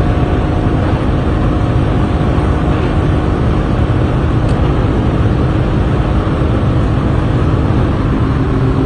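Tuned Lada car running at a steady engine speed, a constant hum of engine tones under loud road noise, with no revving up or down.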